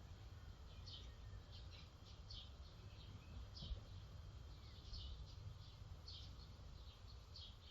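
Small birds chirping faintly, short high chirps a couple of times a second over a low rumble, with one soft thump about halfway through.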